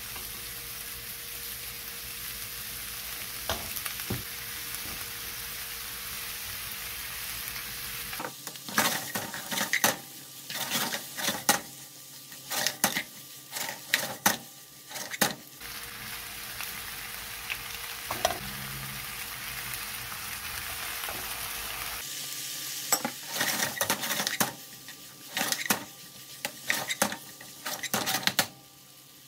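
Sausage slices and chopped vegetables sizzling in a nonstick frying pan. The steady sizzle is broken twice by bouts of quick scraping strokes as a black plastic spoon stirs and tosses the food against the pan.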